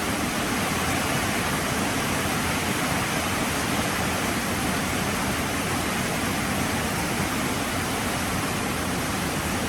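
Heavy rain falling, a steady dense hiss without breaks.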